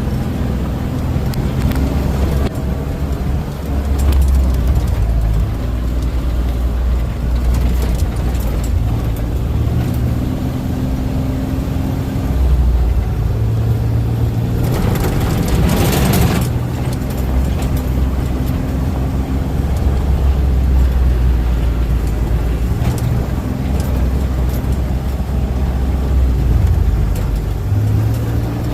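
Engine of a moving vehicle running with a steady low rumble, its pitch shifting now and then. A loud hiss about fifteen seconds in lasts a second or two.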